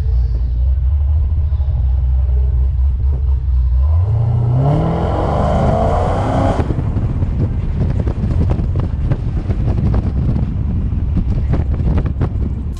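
A car engine idles, then revs up with a rising note about four seconds in and pulls away hard with a loud rush. It keeps running at speed with a rough, crackling sound.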